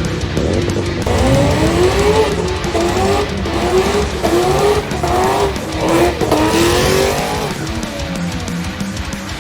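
Car engine revving up and down over and over, with tyres squealing as in a burnout; music plays underneath.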